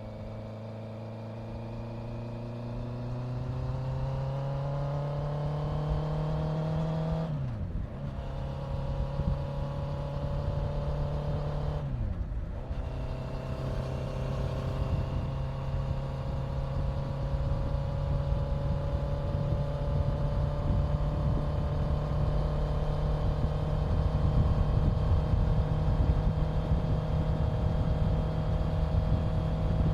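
Honda CBR650F's inline-four engine pulling up through the gears, with two quick upshifts about seven and twelve seconds in, then holding a steady cruising speed. Wind rush grows louder as speed rises.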